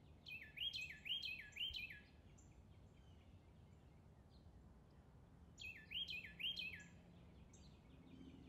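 A bird calling faintly: a run of quick notes that each slide down in pitch, then a pause of about three seconds and another run of the same notes, over a steady outdoor background hiss.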